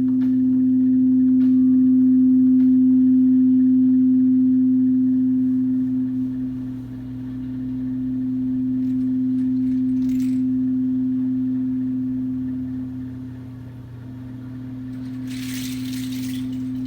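A crystal singing bowl sounding one sustained pure tone, swelling and fading in slow waves as it is rimmed. A brief soft hissing shimmer comes near the end.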